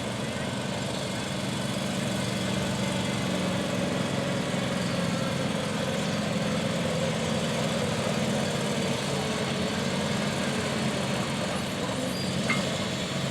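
An engine running steadily at an even speed, with a brief sharp tick near the end.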